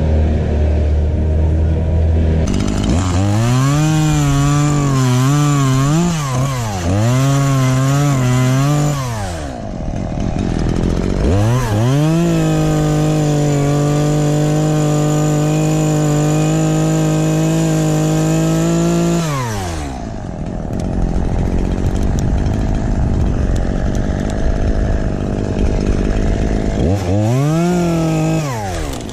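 Two-stroke chainsaw run up to full throttle in long bursts while cutting oak, its pitch wavering under load in the first run and holding steady in the second. It drops back to a low idle between runs and revs briefly once more near the end.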